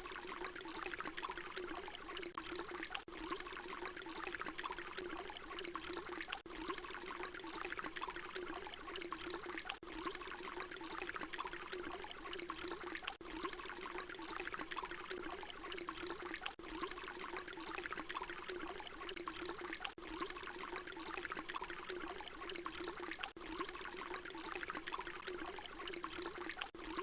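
Water pouring in a steady stream, splashing continuously. It is a short recording looped, with a brief dip in the sound about every three seconds where the loop repeats.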